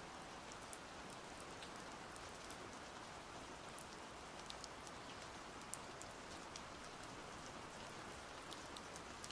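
Steady rain, a quiet even hiss with scattered sharp raindrop ticks, left alone after the music has ended.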